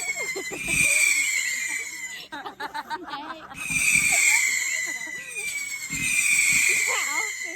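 Finale Velocity firework shooting off whistling shots: four long high whistles, each about a second and a half and falling slightly in pitch, with low thumps beneath. Between the second and third whistles comes a quick rattling crackle.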